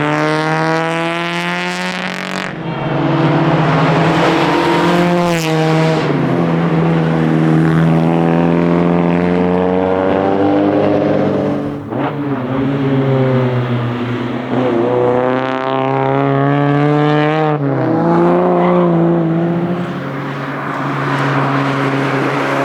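Alfa Romeo Giulia engine driven hard, its pitch climbing under acceleration and then dropping at gear changes or when the driver lifts off, several times over, as the car works along the road.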